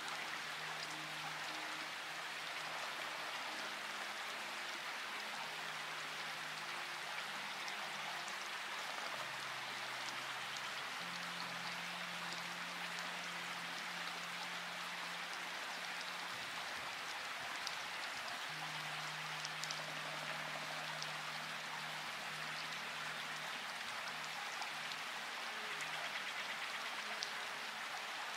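Steady rain falling, an even hiss with scattered faint drip ticks. A soft, low sustained music drone sits underneath, shifting to a new held note every few seconds.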